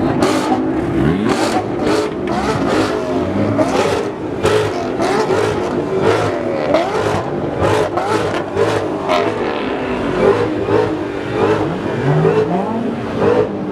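Car engines revving at a car meet, several at once, their pitch sweeping up and down over and over, with frequent short sharp pops throughout.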